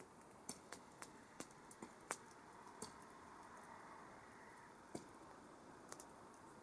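Campfire wood crackling: scattered sharp pops over a faint hiss, the loudest pop about two seconds in, with a soft hissing swell in the middle.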